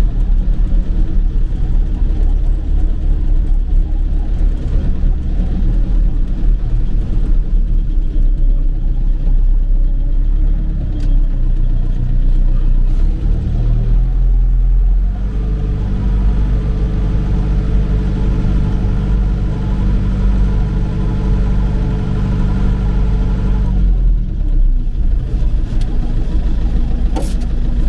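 Old farm tractor's engine running steadily while driving. About halfway through, its note changes and settles into a steadier, more even drone.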